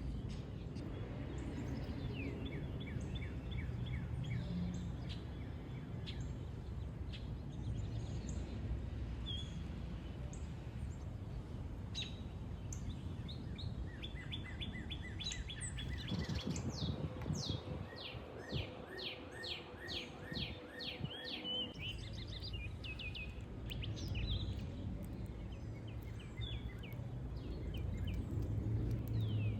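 Songbirds singing: runs of quick repeated descending chirps, the longest a fast trill in the middle, over a steady low outdoor rumble.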